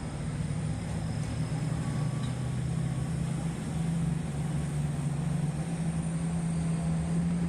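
Heavy mining machine's diesel engine running steadily with a low, even drone.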